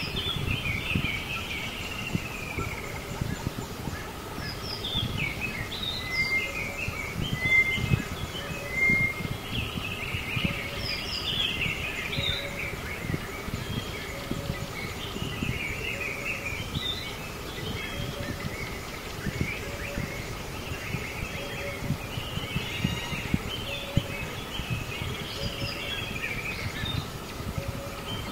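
Birdsong: several birds chirping and twittering throughout over a steady outdoor background, with a faint short note repeating about once a second.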